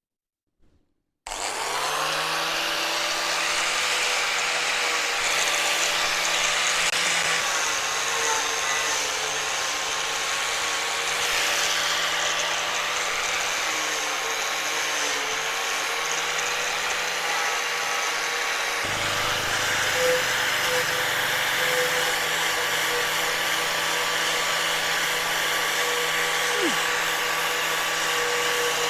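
An electric power tool starts about a second in and runs steadily under load, its motor tone wavering slightly, with a small change in sound about two-thirds of the way through.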